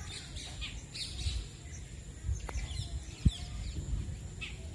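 Parrots calling from a tree in many short, quick chirps, over a low rumble.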